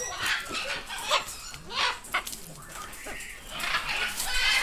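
Parrots calling: a run of short, harsh squawks, with a louder, longer call near the end.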